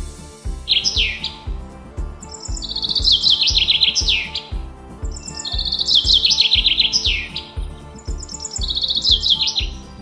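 Common chaffinch singing: repeated song phrases about every three seconds, each a fast run of notes falling in pitch. Background music with a steady beat runs underneath.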